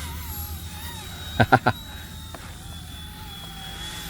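Whine of an RC ERA 186C micro RC helicopter's electric motor and rotor in flight, its pitch wavering up and down as the throttle changes. About a second and a half in, three short, loud pitched yelps cut across it.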